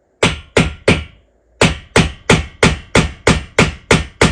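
Hammer strikes tapping a small starting indentation into a building wall for a drill's pilot hole: three blows, a short pause, then nine more at about three a second.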